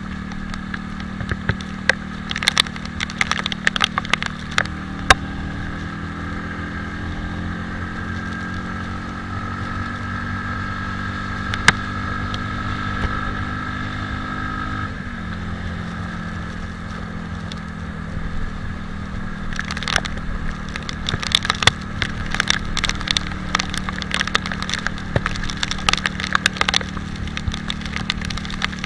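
Italika 250Z motorcycle engine running under way, its note stepping up about five seconds in and dropping back about fifteen seconds in. Bursts of crackling clicks come through early on and again in the second half.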